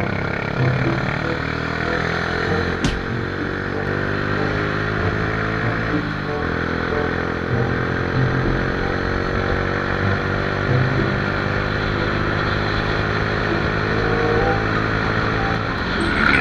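Motorcycle engine running steadily under way, its pitch drifting gently as speed changes, with a constant rush of wind noise.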